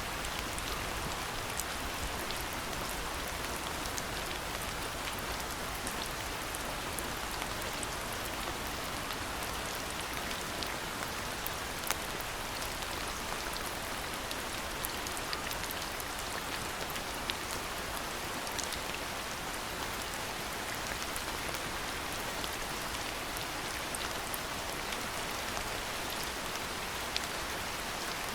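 Steady rain falling, with many sharp single drop hits standing out over the hiss and one louder hit about twelve seconds in.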